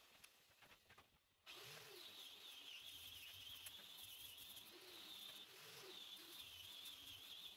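Near silence, with faint low bird calls, cooing a few times.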